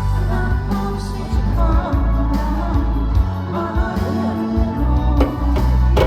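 A singer performing a song over a steady instrumental accompaniment with a prominent bass line.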